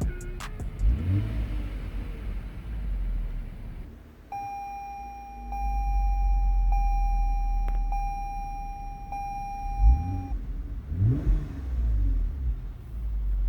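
2020 Toyota Avalon TRD's 3.5-litre V6 exhaust rumbling, with a rev about a second in and more revs around ten seconds in. In between, an electronic chime sounds for about six seconds as a steady tone, breaking briefly about once a second.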